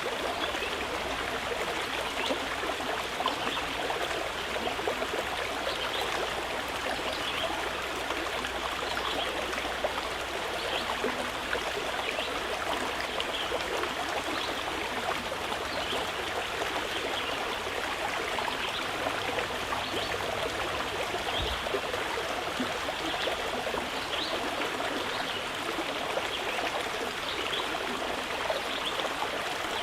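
Mountain river flowing: a steady rush of running water.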